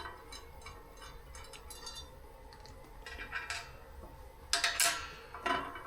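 Light metallic clinks and rattles of a freshly TIG-welded stainless steel oil filter delete plate being handled and taken off its fixture, with a few louder sharp clinks near the end.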